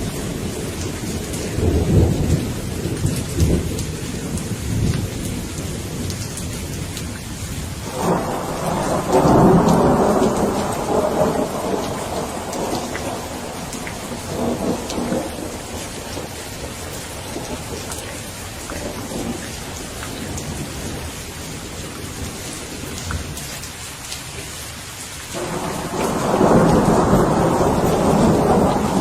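Steady rain with thunder: low rumbling in the first few seconds, then a louder peal breaking suddenly about eight seconds in and rolling on for several seconds, and another sudden peal near the end.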